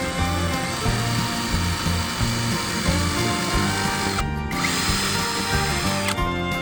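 A power tool running at speed, a dense whirring noise that stops briefly about four seconds in and again near the end, over background music with a steady beat.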